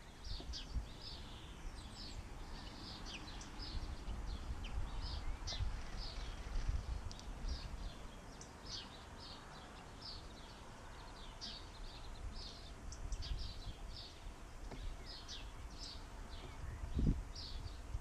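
Small garden birds chirping over and over in short, high calls, over a low rumble of wind on the microphone, with a brief low thump about a second before the end.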